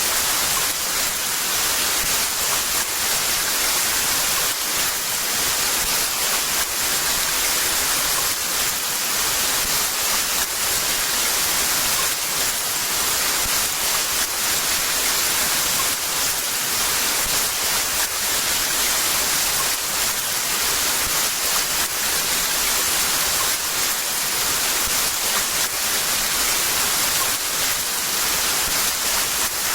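Heavy rain falling in a steady, dense hiss with no thunder.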